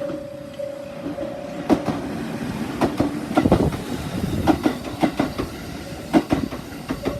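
JR 373 series three-car electric train passing through a level crossing, its wheels clacking over rail joints in quick pairs. The crossing's repeating bell rings for the first second or two before the clacks take over.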